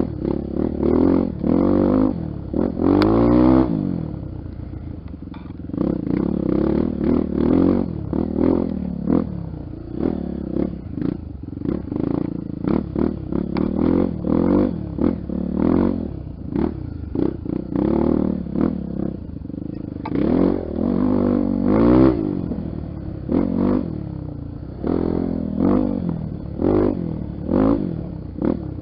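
Honda XR 250 Tornado's single-cylinder four-stroke engine revving up and down over and over as the throttle is worked on a trail ride, with frequent knocks and rattles throughout.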